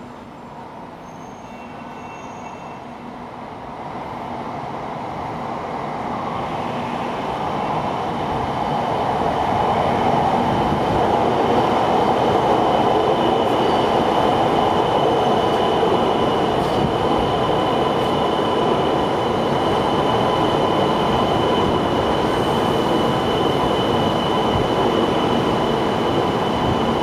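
CRH2C high-speed electric multiple unit pulling into the station along the platform. Its running noise grows steadily louder over the first ten seconds as it draws near, then holds steady with a thin high whine as the carriages roll past.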